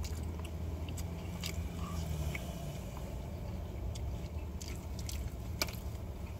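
A person chewing and eating at close range, with wet mouth noises and scattered sharp clicks, one louder near the end. Under it runs a steady low hum.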